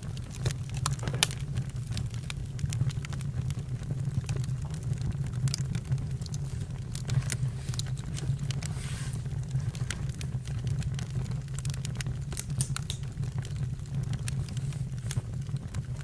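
Campfire burning: a steady low rumble of the flames with irregular crackles and pops, one sharper pop about a second in.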